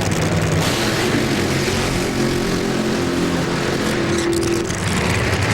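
Nitro Funny Car's supercharged V8 engine running loudly, its pitch shifting a little through the middle.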